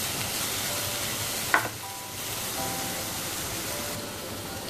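Onion-tomato masala sizzling in oil in a nonstick pan, the oil starting to separate from the masala, the sign that it is nearly cooked. A single sharp knock sounds about a second and a half in.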